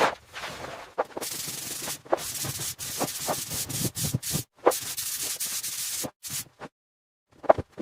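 Rough rubbing or scraping strokes on a hard surface, in several long passes broken by short knocks, stopping for about a second near the end.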